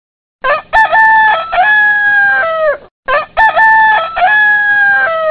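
Rooster crowing twice, the two crows identical, each about two and a half seconds long with a long held note that drops away at the end, like a sound-effect clip played twice.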